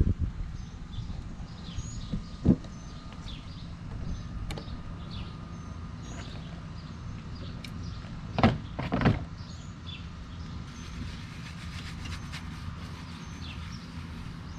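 A few sharp knocks and clatters of cleaning gear being handled, one about two and a half seconds in and two close together past the middle, over a low steady rumble, with faint bird chirps in the background.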